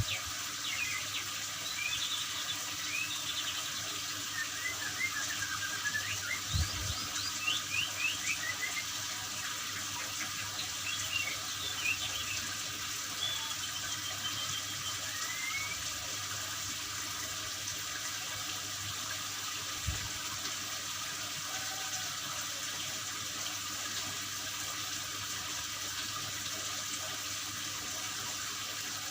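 Water running steadily, like a tap or spray. Short bird chirps and whistles come over it through roughly the first half, then stop.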